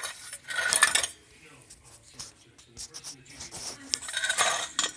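Metal parts clinking and rattling: a loud clattering scrape in the first second, scattered light clicks, then another clatter near the end.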